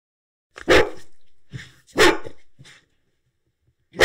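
A dog barking: three loud single barks about a second and a quarter apart, the last near the end.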